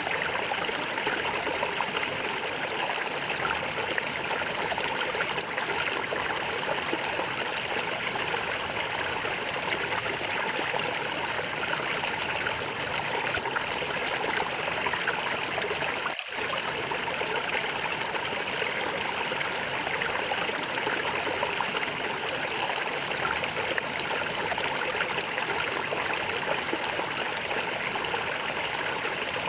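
Gurgling stream water flowing steadily, with one momentary break about halfway through.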